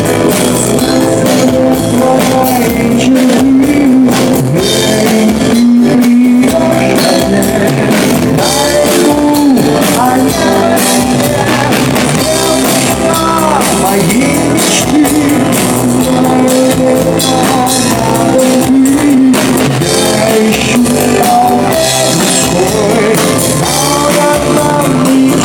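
Live pop-rock band playing a song: drum kit and guitar under a lead melody line that bends up and down.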